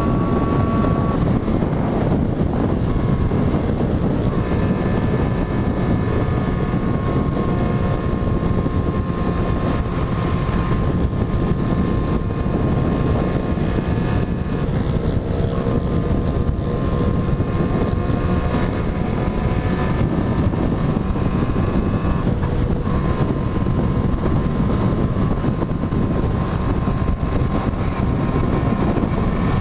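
Motorcycle engine running on the move, its note holding steady and shifting a few times, under a constant rush of wind over the microphone.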